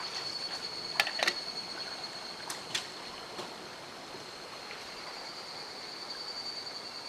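Mountain stream flowing steadily. A few sharp clicks or knocks come about a second in and again around two and a half seconds in, over a steady thin high-pitched tone.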